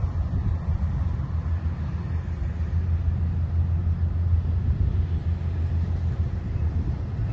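Engine of a harvest machine running steadily, a continuous low rumble.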